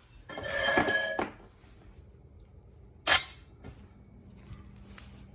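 Metal parts of a table saw's folding stand, its steel legs and carriage bolts, clattering and clinking as they are handled and fitted together. There is a rattle with metallic ringing lasting about a second, then one sharp clink about three seconds in.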